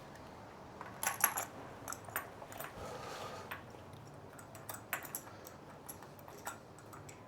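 Small metal tools and parts being handled: scattered light clicks and clinks, with a soft rustle about three seconds in.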